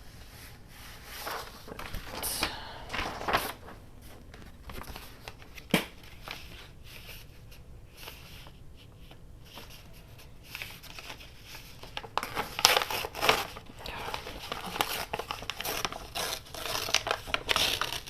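Paper being handled and shuffled: rustling and crinkling in two spells, with a single sharp tap about six seconds in.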